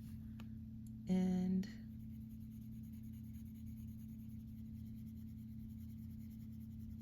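Coloured pencil scratching faintly on paper over a steady low electrical hum.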